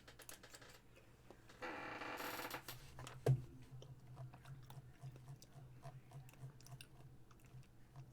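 Faint scattered small clicks and handling noise over a steady low hum, with a brief pitched sound about two seconds in and a single sharp knock just after three seconds.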